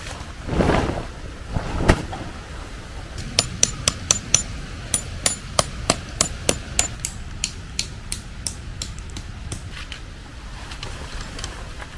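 A hammer striking metal: a run of sharp, ringing blows, two to three a second, that slows and fades near the end. A rustle and a single knock come before them.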